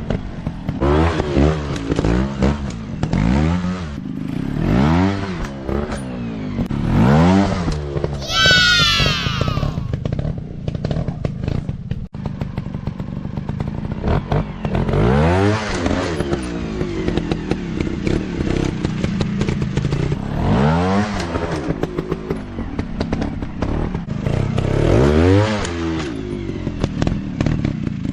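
Small dirt bike engines revving in repeated bursts, the pitch climbing and dropping every second or so at first, then in longer pulls further on. A brief high-pitched falling whine sounds about eight seconds in.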